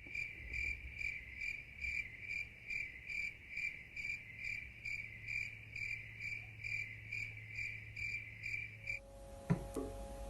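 Cricket chirping in a steady rhythm, about two high-pitched chirps a second, which stops about nine seconds in. A sharp knock and a few held lower tones follow near the end.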